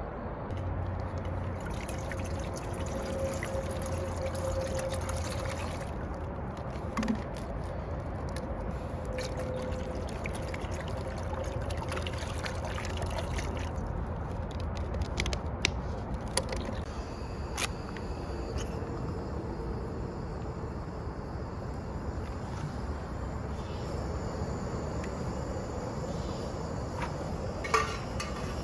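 A pot of water heating toward the boil: a steady hiss with trickling, bubbling liquid sounds and a few light clicks.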